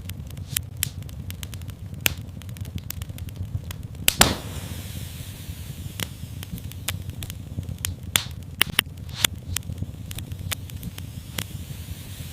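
Wood fire in a fireplace crackling, with many sharp pops over a steady low rumble of the flames and one louder crack about four seconds in.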